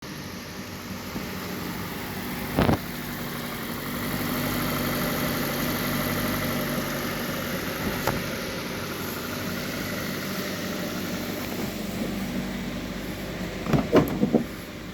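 2016 Suzuki Ignis 1.2-litre four-cylinder petrol engine idling steadily during an engine test. Sharp knocks cut in once, about three seconds in, and several times in quick succession near the end.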